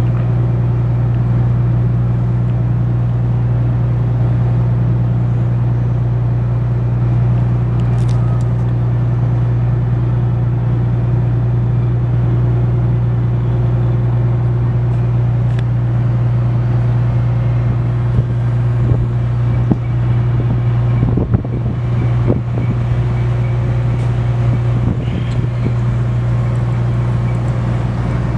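Boat engine running steadily with a deep, even hum. A few scattered knocks come about two-thirds of the way through.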